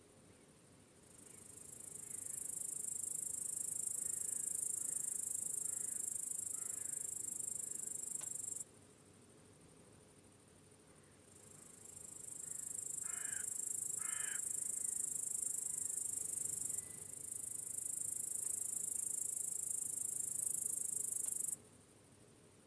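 Crickets chirping in a high-pitched trill that swells in about a second in and cuts off after about eight seconds, then starts again and runs for about ten more seconds before stopping. Two short calls sound in the middle of the second stretch.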